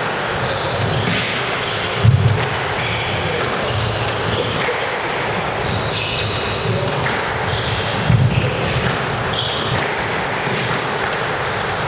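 A squash rally: the ball is struck by rackets and smacks off the court walls, with two louder hits about 2 and 8 seconds in, and short high squeaks in between, amid the echo of a hall.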